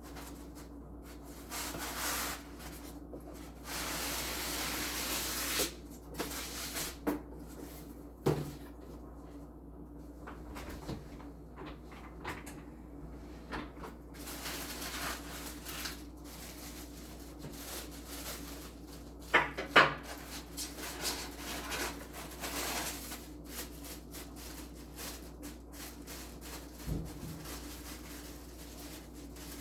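Packaging being handled during an unboxing: cardboard and plastic rubbing and sliding, with a few sharp knocks, the loudest about twenty seconds in. A steady low hum runs underneath.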